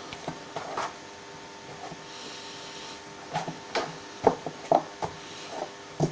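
A run of sharp knocks and clatter from tools and a sanding block being picked up and set down on a workbench, starting about halfway through, over a faint steady hum.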